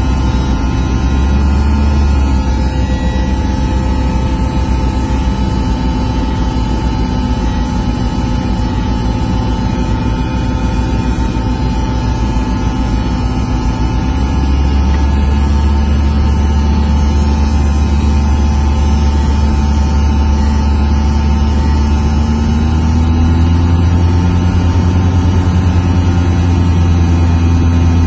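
Cessna 172S's four-cylinder Lycoming engine and propeller droning steadily, heard from inside the cockpit. About halfway through the sound gets louder, and near the end the pitch rises a little as power is added.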